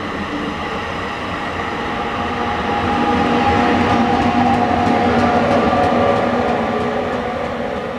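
NJ Transit push-pull train accelerating away: bilevel coaches roll past, then the trailing ALP-46A electric locomotive passes close. Its steady motor and fan hum swells to a peak and fades as it goes by, with light clicking from the wheels as it passes.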